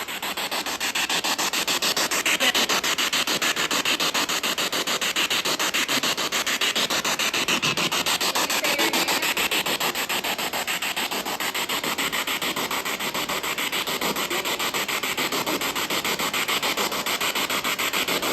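Spirit box scanning through radio frequencies: a continuous hiss of static chopped into rapid, evenly spaced pulses.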